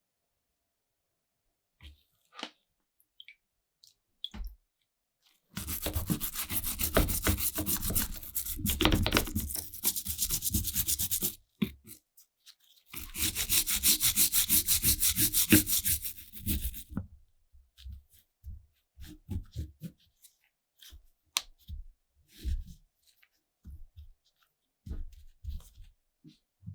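Sanding: two long runs of rapid, even scraping strokes with a short break between them, then scattered small clicks and knocks of handling.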